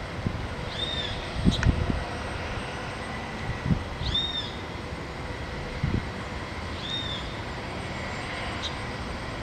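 A bird repeating a short, arched call four times, a few seconds apart, over a steady mechanical hum and occasional low thumps.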